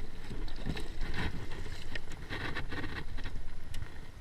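Wind buffeting the camera microphone in a steady low rumble, with irregular short bursts of hiss on top.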